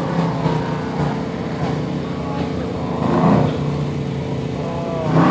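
Autocross race car's engine running hard on the coned course, with a brief surge in revs about three seconds in.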